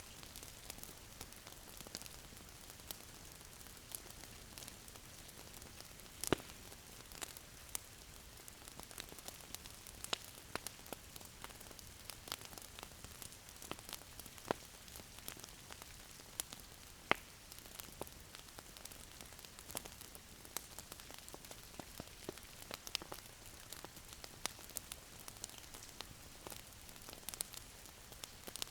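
Wood fire crackling in a fireplace: a steady soft hiss with sharp, irregular pops and snaps, a few much louder than the rest.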